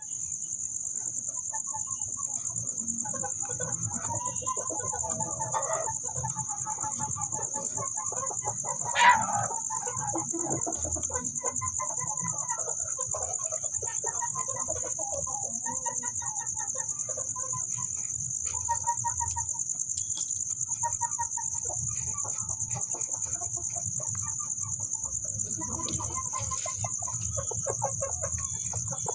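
Chickens clucking on and off, with one loud sharp squawk about nine seconds in, over a steady high-pitched whine.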